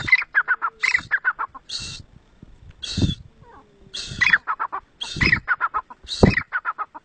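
Black francolin (kala teetar) calling over and over, about one phrase a second: each phrase a harsh rasping note followed by a fast run of short clicking notes. A few low thumps fall among the calls.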